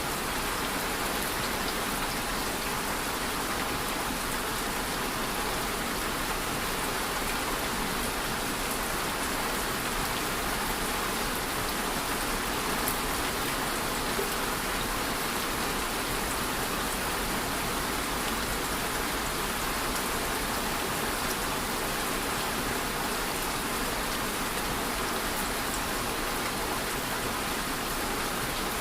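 Steady rain falling, an even patter of drops on a surface with a few sharper drop ticks.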